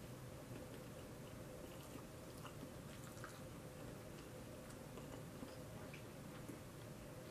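Faint closed-mouth chewing of food, with small soft mouth clicks, over a steady low hum.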